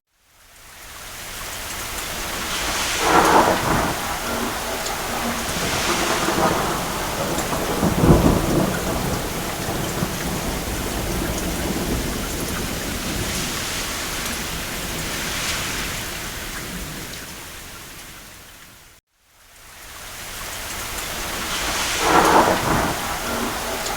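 Steady heavy rain with rolls of thunder, the deepest rumble about eight seconds in. The sound fades to silence right at the start and again about 19 seconds in, then fades back up each time.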